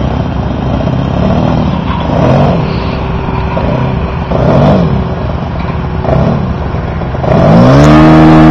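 Saito FA-125 four-stroke glow engine on a radio-controlled Edge 540 aerobatic plane in flight, its pitch rising and falling several times as the plane manoeuvres and passes. About seven seconds in the engine opens up, the pitch climbing quickly to its loudest, steady high note.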